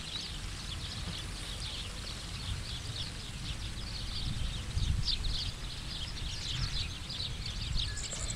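Small birds chirping in many quick, short, high calls over a low, fluctuating rumble of wind on the camera's microphone.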